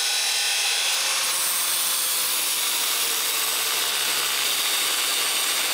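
Power tool cutting into square metal tubing, a steady, unbroken high-pitched hiss as the sides of the tube end are cut away.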